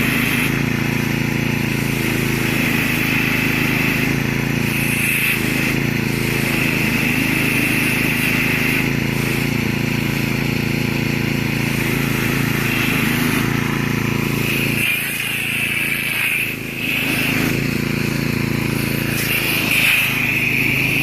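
Engine-driven pressure washer running steadily, its motor drone under a constant hiss of spraying water, while air is being worked out of the line. The sound dips briefly a little past the middle.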